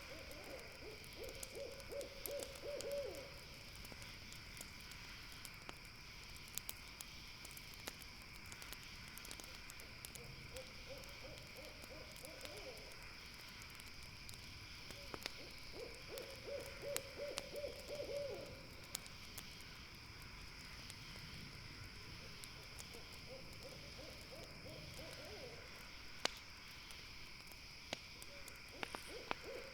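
Owl hooting: five drawn-out, wavering calls of two to three seconds each, coming every five to seven seconds. Under them run a steady high drone and scattered faint crackling clicks from the campfire.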